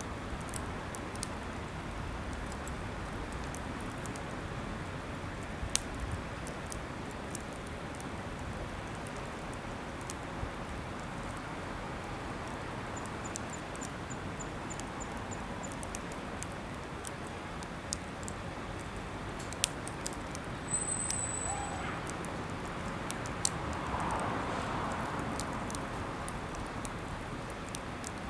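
Wood fire burning with a steady rush and scattered sharp pops and crackles, plus one brief high whistle a little after the middle.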